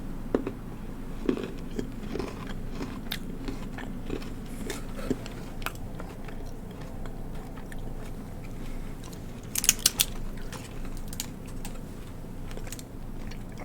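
A person chewing a Listerine Ready Tab chewable tablet: crunching and biting, with a few louder, sharp crunches about two-thirds of the way through.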